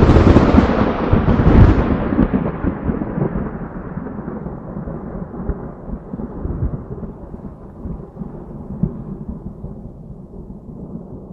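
A loud thunderclap that breaks suddenly and rolls on as a low rumble, fading away gradually over about ten seconds.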